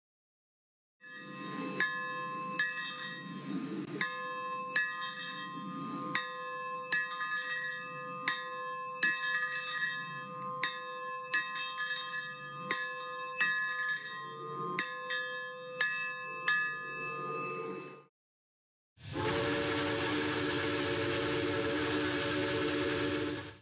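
A steam locomotive's bell ringing steadily, about three strikes every two seconds, for some seventeen seconds before stopping abruptly. After a short gap a steam locomotive whistle sounds one long, steady chime chord of about four seconds.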